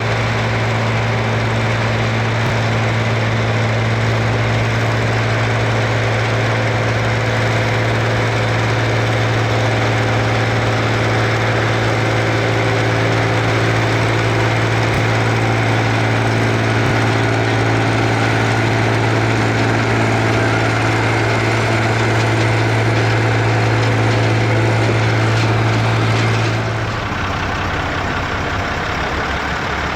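Eicher tractor's diesel engine running at a steady speed; about 27 seconds in the steady note stops and the sound drops to a quieter, rougher running.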